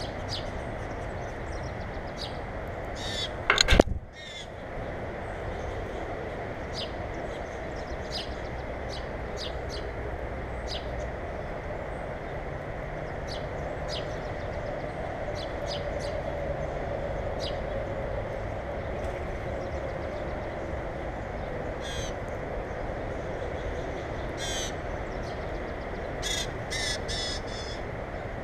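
Birds at a feeder calling in short, repeated chirps over steady background noise, with louder, harsher calls near the end. About four seconds in there is one sharp, loud knock.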